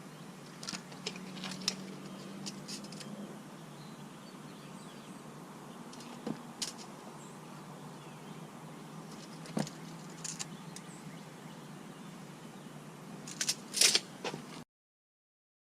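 Scattered light clicks and taps over a steady low hum, with a quick cluster of louder clicks about fourteen seconds in; the sound then cuts out completely near the end.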